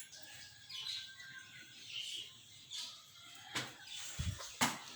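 Faint bird chirps in the background, with a few sharp clicks and a low knock near the end.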